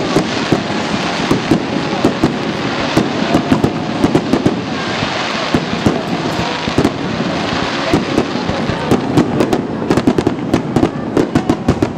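Aerial fireworks display: shells bursting one after another in many sharp bangs over a continuous crackle, the bangs coming thicker near the end.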